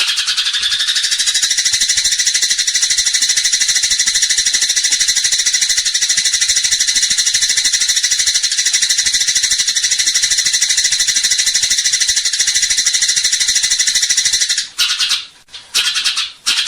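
Eurasian tree sparrow in fighting mode, giving a loud, continuous, very rapid high chatter of fast repeated notes. It breaks off twice briefly near the end and then resumes.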